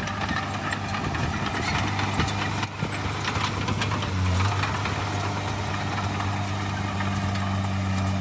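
Heavy diesel earthmoving machinery running steadily with a constant low drone, with a run of metallic clatter in the first half.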